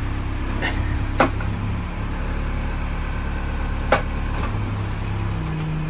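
Engine of an old bucket loader running steadily as it is driven, with two sharp clanks, and the engine's pitch rising near the end.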